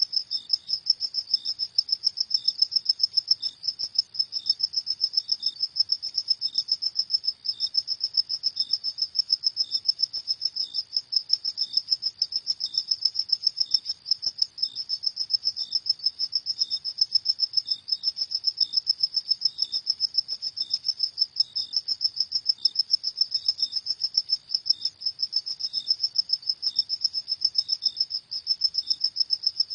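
Crickets chirping: a steady, high, rapidly pulsing trill, with a softer, lower chirp repeating about every two-thirds of a second.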